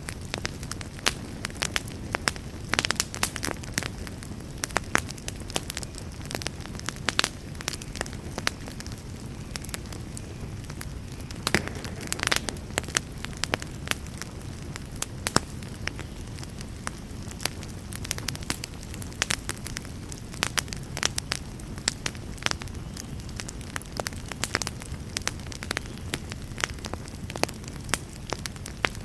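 Wood campfire crackling, with sharp pops at irregular intervals over a steady low rush of the flames.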